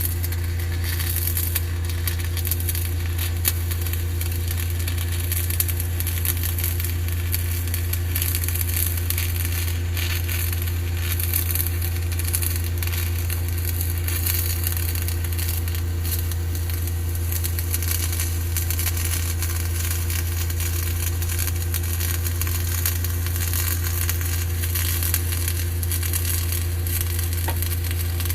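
Electric arc welding: a continuous crackle and sizzle from the arc over a constant low hum from the welding machine.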